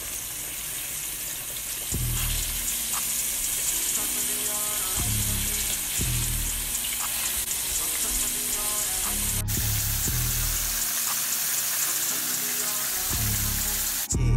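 Breaded pork chops frying in hot oil in a skillet, with a steady sizzle, over a hip-hop track's deep bass beat.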